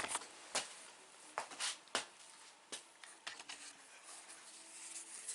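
Faint scattered clicks and light rustling, the handling noise of small objects being moved about, with a few sharper ticks roughly every second.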